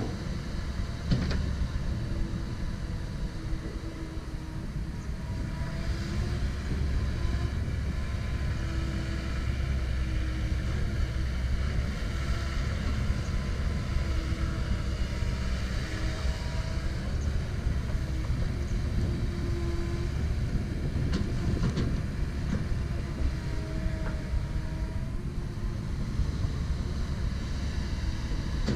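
Komatsu PC170LC-10 excavator's diesel engine running steadily under load, with short hydraulic whines that come and go as the boom, arm and bucket are worked. A few sharp knocks, one about a second in and a couple about two-thirds of the way through.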